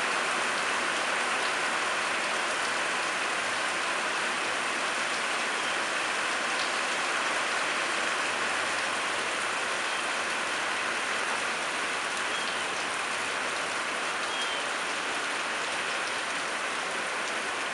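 Light rain falling steadily.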